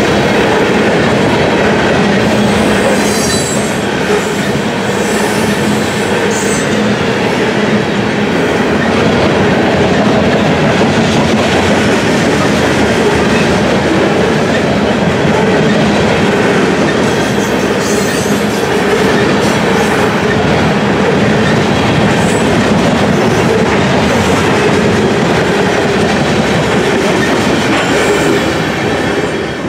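Freight train of covered hopper cars rolling past: a steady rumble and clatter of steel wheels on the rails, with brief high wheel squeals a few times.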